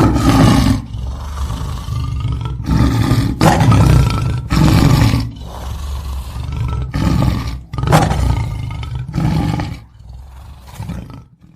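Lion roaring: a series of loud, deep roars one after another, tailing off quieter near the end.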